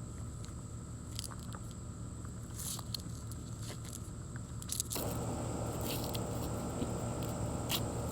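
Ears of sweet corn being husked by hand: the husks crinkle and tear in short, irregular crackles over a steady low background hum.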